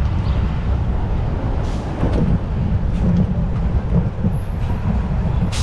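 Bicycle riding noise: a steady, loud low rumble of wind on the microphone and tyres on the road, with a few light rattles and a sharper click right at the end.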